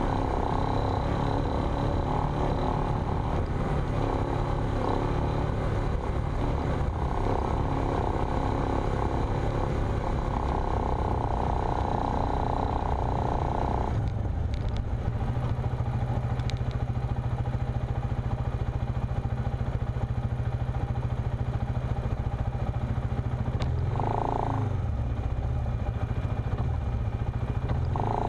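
A 4x4's engine running steadily as it drives along sand tracks. About halfway through, the higher part of the sound drops away, leaving a lower, steady engine hum, with a few light clicks and rattles later on.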